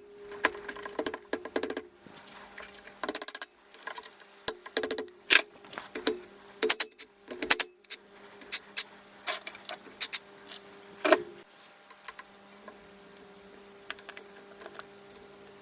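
Irregular metallic clicks and clinks of tools and engine parts being handled, some of them ringing briefly, coming thick and fast and then thinning out about eleven seconds in, over a steady low hum.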